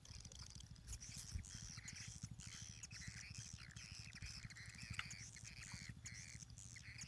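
Faint outdoor birdsong: small birds chirping with many short, quick calls, over a low rapid throb.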